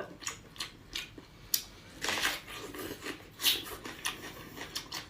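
Biting into and chewing a crisp apple close to the microphone: a run of sharp crunches and crackles, loudest about two seconds in and again a little past three seconds.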